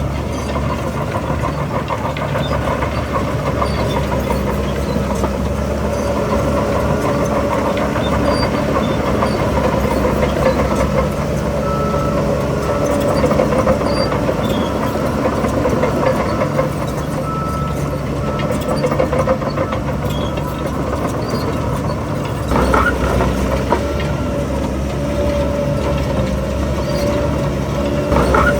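Heavy diesel earthmoving machinery, a bulldozer and dump truck, running steadily under load with a continuous rattling clatter. There is a short sharp burst about 22 seconds in and another at the very end.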